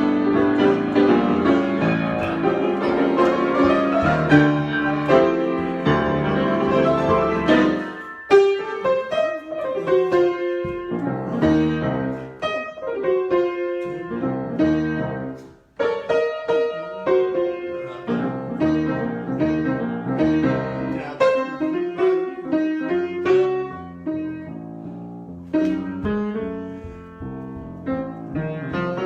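Piano being improvised solo: thick held chords for the first few seconds, then sparser struck notes and chords, with a brief break about halfway through before it picks up again.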